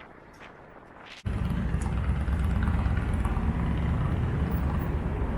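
Quiet street ambience with a few faint clicks, then about a second in an abrupt switch to a steady, loud low rumble of wind and road noise on the microphone while riding a bicycle.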